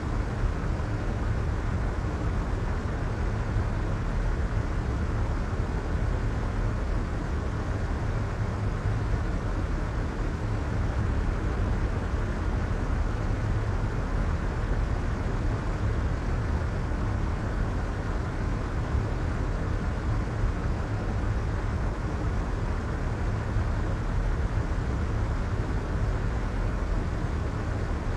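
Soft white noise: a steady, unchanging hiss with its top muffled, heaviest in the deep low end and fading away in the highs.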